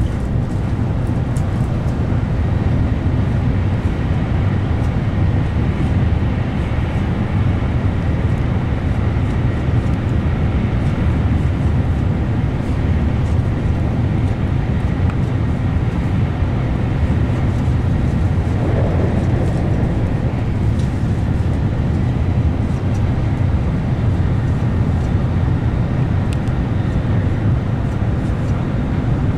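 Cabin noise of a Tokaido Shinkansen train running at speed, heard from inside the carriage: a steady low rumble with a hiss over it.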